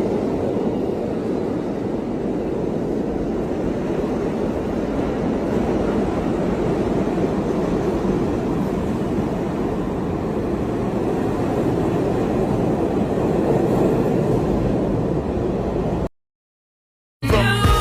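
New York City subway train running, a steady even noise with no voices over it. It cuts off suddenly about sixteen seconds in, and after a second of silence music starts near the end.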